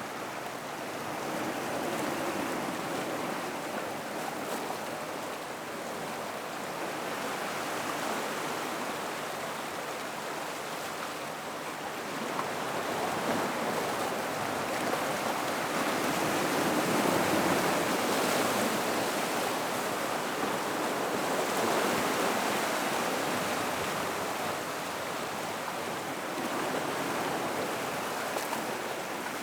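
Gentle ocean swell washing into and through a rock pool: a steady rushing of water that rises and falls in slow surges every several seconds.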